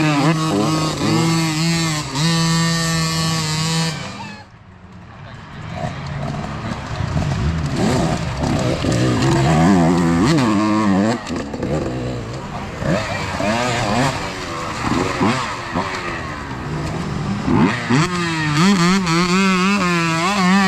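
Youth dirt bike engines racing, revving up and down with gear changes as several bikes ride past. The sound drops away sharply about four seconds in, then builds again as more bikes come through.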